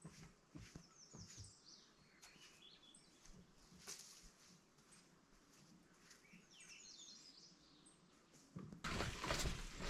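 A songbird singing twice, a quick falling series of high chirps about a second in and again around seven seconds, over faint thuds. Near the end, loud rustling and knocking close to the microphone starts up suddenly.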